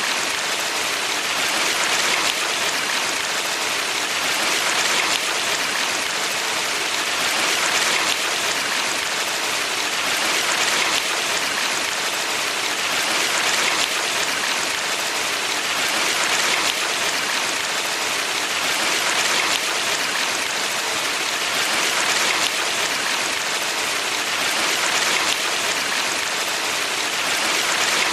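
Valley stream water flowing: a steady rushing hiss that swells gently every two to three seconds.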